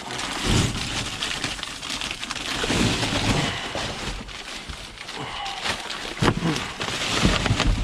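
Rummaging through trash in a dumpster: plastic bags and packaging rustling and crinkling, with items knocking and clattering against each other many times.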